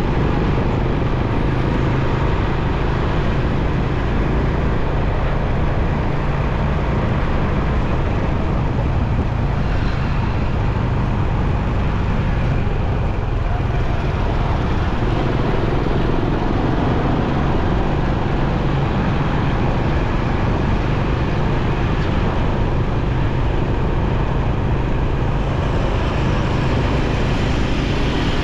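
Motorcycle ride through busy city traffic: the bike's engine running steadily with road and wind noise, and the surrounding traffic mixed in.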